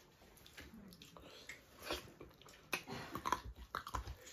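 Close-miked eating sounds of chicken drumsticks and rice eaten by hand: chewing, biting and wet lip-smacks. It is faint at first, and the smacks and clicks come louder and more often in the second half.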